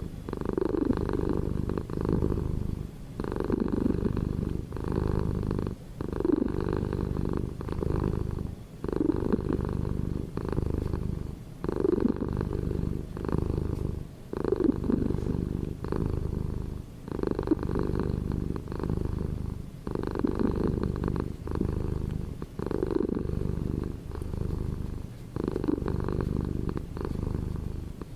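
Domestic cat purring up close: a continuous low rumbling buzz that swells and dips with each breath, about one cycle every one and a half seconds.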